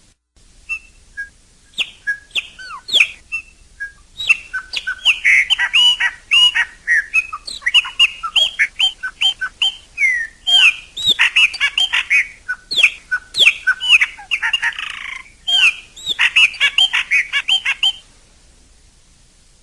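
Chopi blackbird singing a long, varied song of quick whistled notes and chirps. The song is sparse for the first few seconds, then dense, with one harsh rasping note near the end, and it breaks off abruptly.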